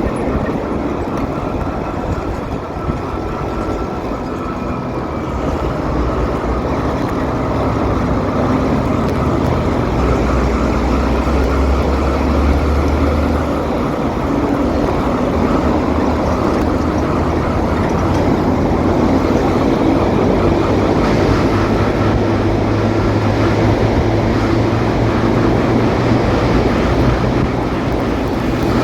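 Motorcycle engine running while riding through city traffic, with wind and road noise. The engine note shifts in pitch a few times as the speed changes.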